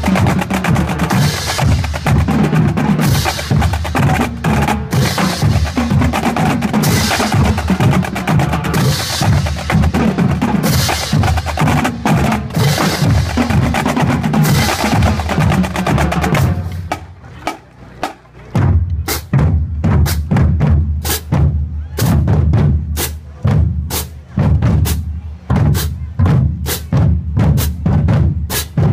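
A high school drumline playing, with snare and bass drums. It plays a dense passage, drops off briefly about seventeen seconds in, then plays sharp separate stick clicks or rimshots over bass drum hits.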